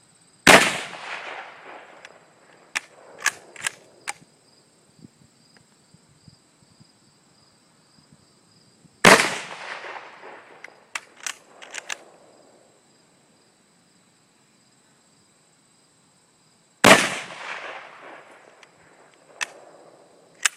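Mosin Nagant bolt-action rifle (7.62×54mmR) fired three times, about eight seconds apart, each shot followed by a rolling echo. Between shots there are sharp metallic clicks of the bolt being worked to chamber the next round.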